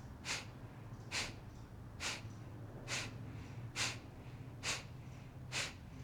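Kapalabhati (Breath of Fire) breathing: short, forceful exhales snorted out through the nose at a steady pace of about one a second, seven of them, with passive inhales between.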